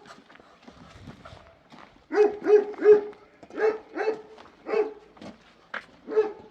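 A dog barking repeatedly: about seven short barks in loose groups, starting about two seconds in.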